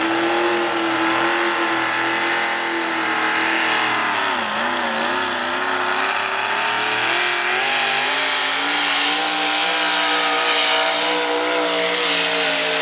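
Modified pulling truck's engine running hard under full load as it drags the sled down the track. The engine note sags about four seconds in, then recovers and climbs steadily toward the end.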